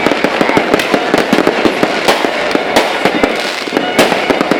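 Fireworks going off in a dense barrage, many sharp bangs and pops a second running together into a continuous loud crackle.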